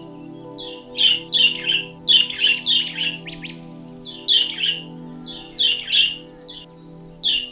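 A songbird chirping: short, sharp chirps in quick clusters of two or three, repeating about every second. Steady background music plays beneath.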